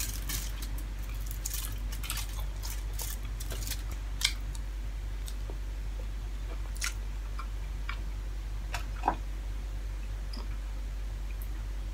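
Close-up mouth sounds of someone eating fried fish and rice by hand: wet chewing and lip smacks, thickest in the first four seconds, then a few sharp single clicks, the loudest about four and nine seconds in, over a steady low hum.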